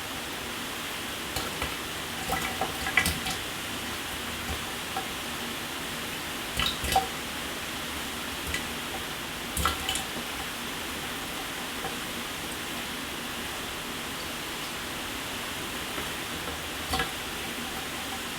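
Shower water running, a steady spray hiss, with a few sharp splashes or taps of water standing out about a second and a half in, around three seconds, seven seconds, ten seconds and near the end.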